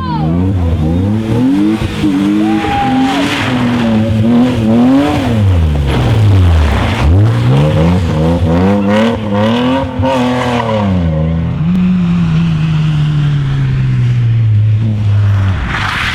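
Rally car engine revving hard through gear changes, its pitch climbing and falling again and again, with a short tyre squeal about two and a half seconds in. The engine note drops away near the end.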